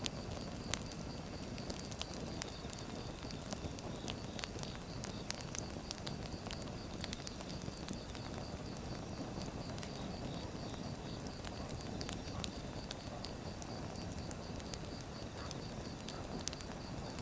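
Firewood burning, crackling with frequent irregular pops and snaps over a steady low rush of flame.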